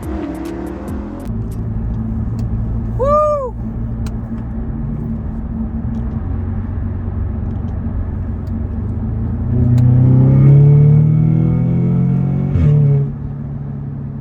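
A car engine running steadily, then revving up louder about ten seconds in and dropping back shortly before the end, with a click as it drops. A brief rising-and-falling chirp sounds about three seconds in.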